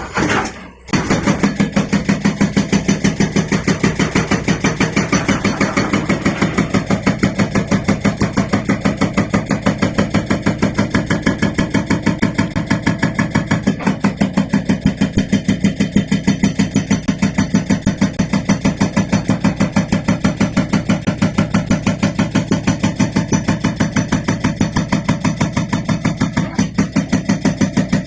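Excavator-mounted hydraulic rock breaker hammering rock in rapid, even blows over the Liugong 921DI excavator's steady engine drone, starting about a second in.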